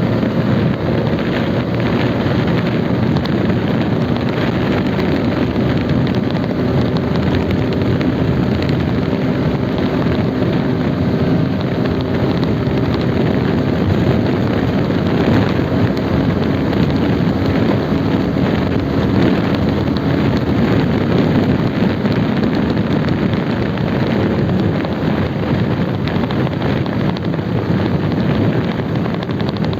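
Motorcycle engine running steadily at cruising speed under heavy wind noise on the rider's microphone.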